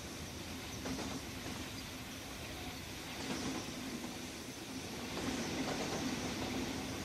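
A train running steadily on a steel truss bridge over a river, heard from aboard: an even running noise with a faint low hum.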